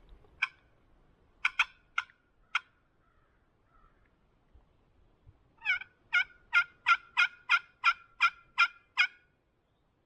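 A series of wild turkey yelps: a few separate notes, then about halfway through a steady run of roughly a dozen loud yelps at about three a second.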